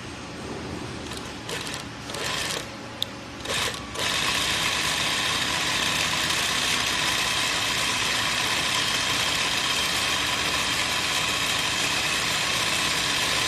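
ZY20U43 zigzag sewing machine stitching: a few short bursts and a sharp click, then about four seconds in it runs steadily at full speed.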